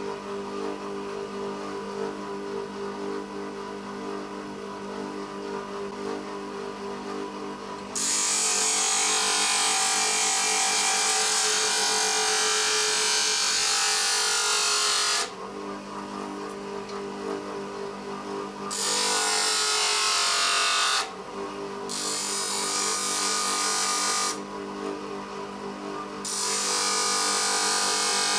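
A small power tool's motor runs steadily, then grinds metal in four stretches of loud, hissing noise as the steel drill bit is shaped, with the motor hum between them.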